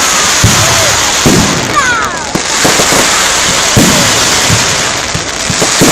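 Fireworks display going off: continuous dense crackling with heavy bangs about once a second.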